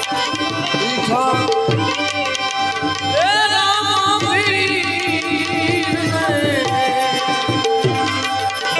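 Indian folk music with tabla playing a quick, steady rhythm under a melodic line. About three seconds in, a higher melody comes in with sliding, ornamented phrases.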